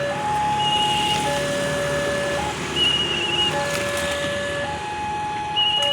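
Electronic two-tone warning alarm, typical of a railway level-crossing signal. It alternates between a lower and a higher tone about every second and a bit, with a short warbling high beep repeating every couple of seconds.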